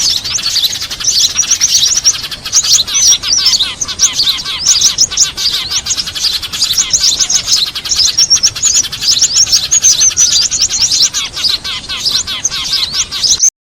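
Bird-lure recording of a noisy flock of sparrows and other small birds chattering, with dense, rapid, high-pitched chirps that overlap without pause. It cuts off abruptly near the end.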